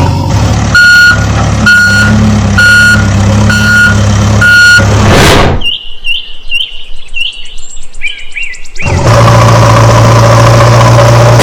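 Heavy truck engine running steadily with a reversing beeper sounding about once a second, five beeps. Then the engine drops out for about three seconds of quick, repeated high chirps, and comes back running steadily near the end.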